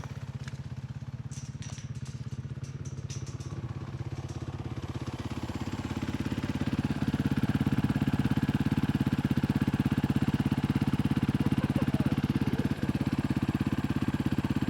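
Dirt bike engine running steadily at idle, growing louder about six seconds in and then holding even. A few light clicks sound in the first few seconds.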